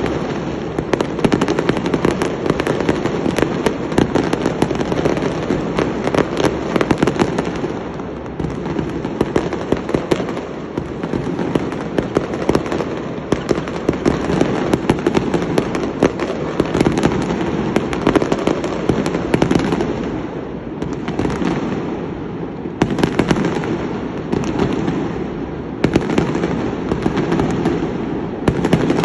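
Fireworks going off in a dense, continuous barrage of rapid crackles and pops over a steady rumble of bangs, easing slightly a few times before picking up again.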